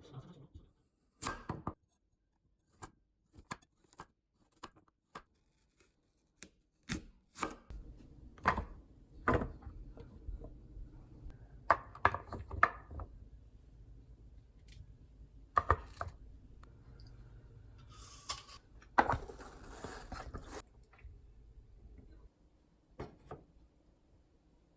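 A kitchen knife chopping on a cutting board in irregular strokes, some sharper and louder than others, with a few seconds of rustling noise about two-thirds of the way through.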